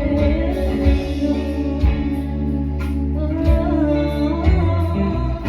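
Live band music: a singer holding a sung line over electric guitar and bass.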